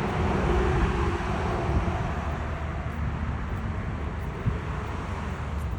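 Steady low rumble and hiss of outdoor background noise, with a faint hum in the first couple of seconds.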